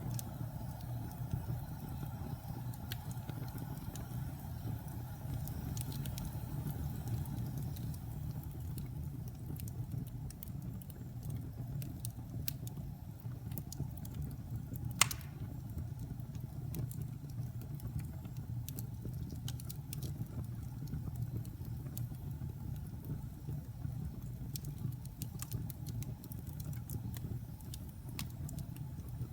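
Wood fire burning in a fireplace: a steady low rumble of flames with scattered small crackles, and one sharp loud pop about halfway through.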